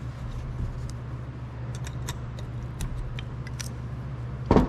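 Small metallic clicks and ticks of hand tools working at the wrist-pin retaining clips of an engine piston, over a steady low hum, with a louder thump near the end.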